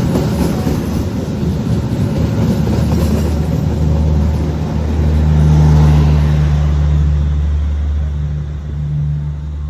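A train running through the station: rumbling rail noise, then a steady low drone that swells to its loudest about six seconds in and eases off near the end.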